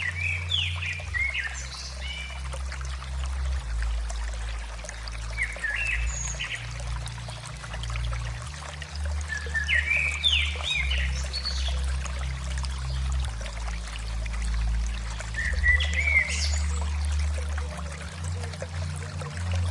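Birds chirping in short gliding calls every few seconds over a steady trickle of running water, with a steady low hum underneath.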